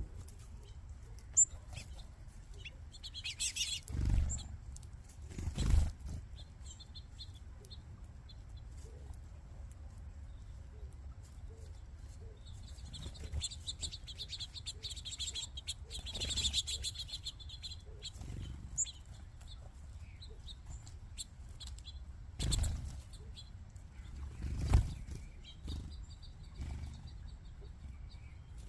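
Small birds twittering at a backyard feeding spot, with a dense run of high chirps in the middle. Four short bursts of wing flapping, as birds take off or land, are the loudest sounds: two near the start and two in the last third.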